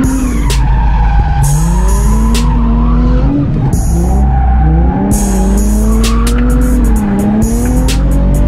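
A drifting car's engine revving up and falling back over and over through the slides, with tyres squealing, under background music with a steady beat.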